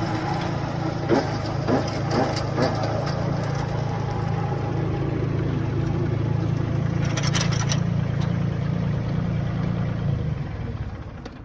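Compact tractor running a 61-inch flail mower through thick brush: a steady engine-and-rotor drone with a few sharp cracks of material being chopped in the first few seconds. The sound fades away near the end.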